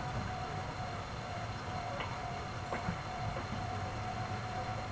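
Diesel railcar approaching the station, a steady low rumble of engine and wheels with a couple of faint clicks. A steady high ringing tone runs alongside it.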